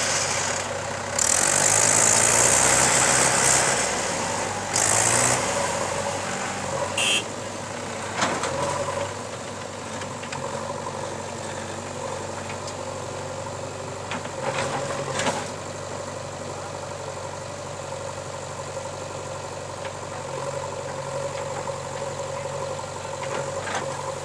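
Diesel engine of earthmoving machinery running steadily. A loud rushing noise comes about one second in and lasts about three seconds, a shorter one follows around five seconds, and a few knocks come later.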